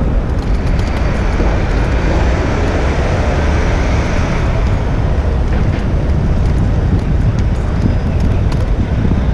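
Wind rumbling on the microphone of an action camera on a moving bicycle, over the steady noise of city traffic; a vehicle's tyre hiss swells from about a second in and fades after about five seconds.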